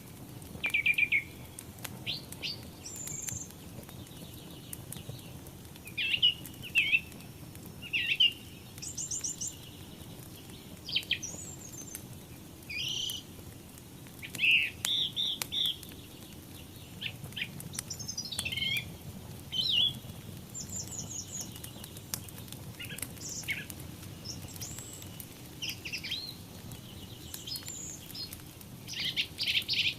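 Small songbirds chirping and trilling, with many short calls scattered throughout, over a low steady fire hiss with faint crackles.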